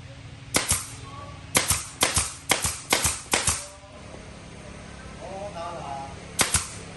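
An air tool run off a Makita XGT 40V cordless compressor firing a quick run of sharp cracks, each a fast double: six in about three seconds, then a pause and one more near the end, over a low steady hum.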